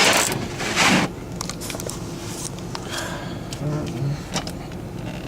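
2003 Ford Taurus running after a cold start, heard from inside the cabin. A loud rushing noise in the first second cuts off suddenly, then a steady hum with scattered clicks.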